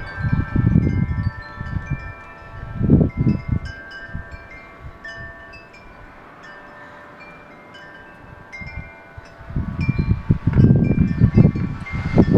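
Wind chimes ringing in strong wind, many overlapping tones struck and fading one after another. Gusts of wind rumble on the microphone at the start, once about three seconds in, and again strongly near the end.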